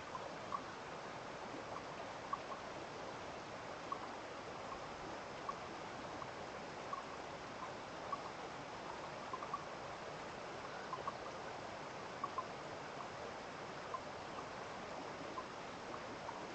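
Stream of running water, a steady rushing, with short clear blips about once a second at uneven intervals over it.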